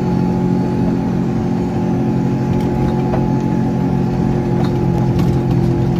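Stock Subaru EA82 flat-four engine, heard from inside the cabin, pulling steadily under load up a soft-sand hill climb. The engine note holds steady, with a few faint clicks here and there.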